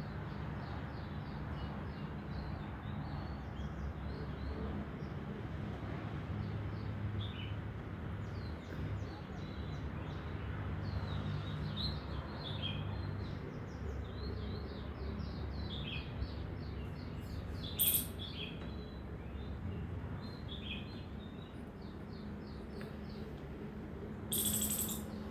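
Small birds chirping in quick series of short high notes throughout, over a steady low rumble. There is a single sharp click about two-thirds of the way through and a brief hiss near the end.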